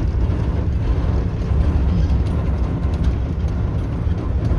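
YaMZ-236 V6 diesel of a TU6A narrow-gauge locomotive running steadily under way, a constant low drone heard from inside the cab.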